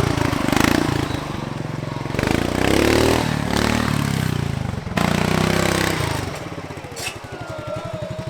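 Modified off-road lawn tractor engine revving up and down in repeated bursts under load, then dropping about six seconds in to a quieter, steady, even-pulsing idle.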